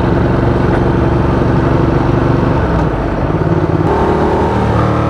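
Ducati Diavel 1200's L-twin engine running through a loud aftermarket exhaust pipe. Its note dips and roughens about halfway through, then picks up again near the end with a slight rise in pitch before holding steady.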